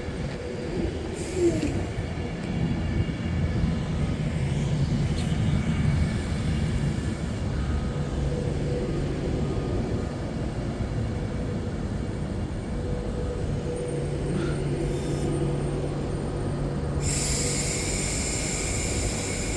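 Train at a railway station: a steady low rumble and hum, with a burst of hiss about three seconds before the end.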